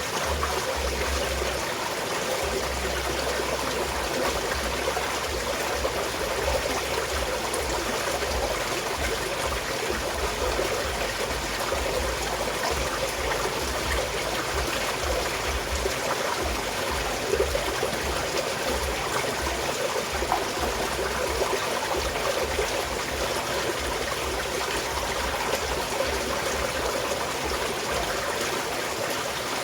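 Small mountain stream flowing and trickling steadily, water babbling over stones, with a low fluttering rumble underneath.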